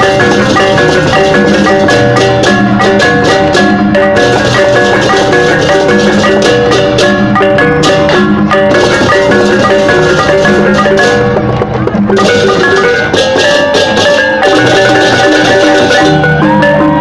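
Balinese gamelan music: fast, interlocking metallophone notes over drums, with many sharp cymbal-like strikes.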